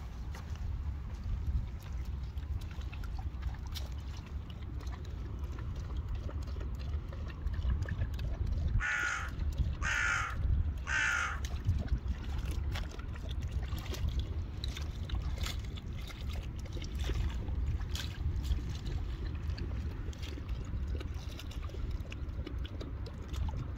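A bird gives three harsh, crow-like calls about a second apart, some nine seconds in, over a steady low rumble.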